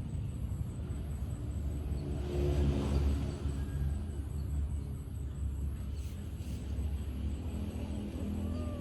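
Steady low rumble of a running engine. Near the end a cat meows once, falling in pitch.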